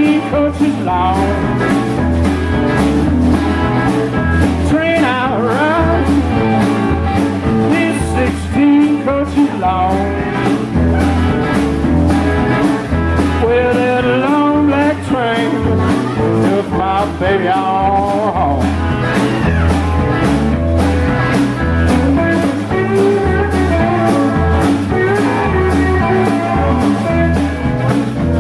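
Blues band playing with bass, drums and guitar at a steady beat, while a lead line bends up and down in pitch over the groove.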